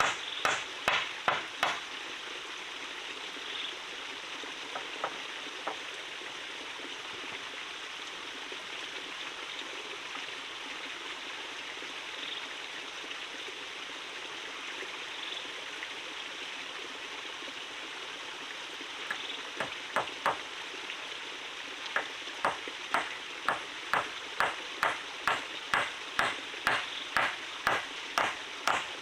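Steady rush of a forest stream, with runs of sharp, evenly paced strikes of a tool on wood, about one and a half a second. The strikes come at the start and again from about twenty seconds in.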